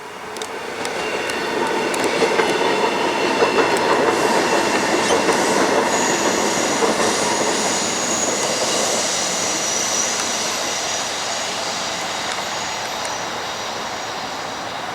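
A train running on the rails, with steel wheels squealing in high, thin tones. The sound swells over the first two seconds and then slowly fades.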